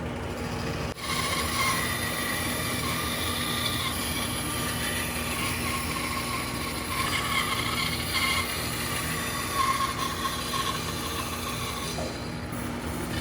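Woodworking power tool running steadily and cutting wood, with a constant hum under a whine that wavers in pitch as the cut goes on.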